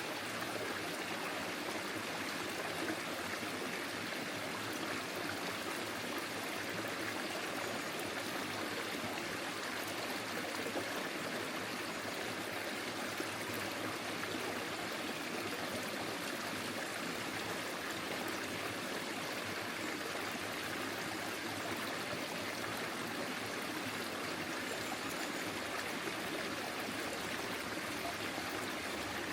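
Forest stream flowing over stones, a steady even rush and babble of water with no breaks.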